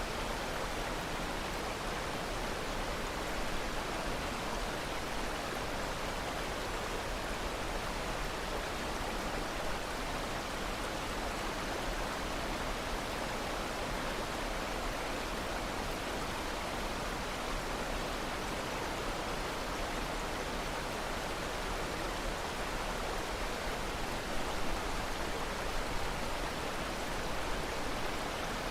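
Steady rushing water, like a stream or waterfall, an even hiss with no breaks.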